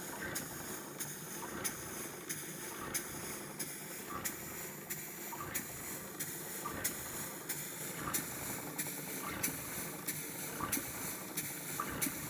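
Model steam beam engine running steadily, with a regular beat of clicks and short puffs about every two-thirds of a second over a faint hiss.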